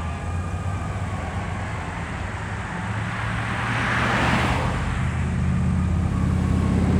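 Heavy diesel engine of a fire apparatus pulling away, growing louder as it picks up speed, with a brief rushing hiss about four seconds in.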